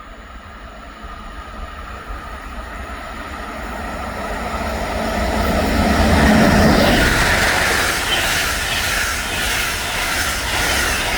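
A train approaching and passing by on the line. Its rumble builds to a peak about six seconds in, then the wheels clatter rhythmically over the rail joints as the cars go past.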